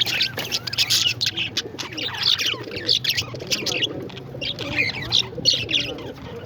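A group of parrots chirping and squawking together, many short calls overlapping continuously.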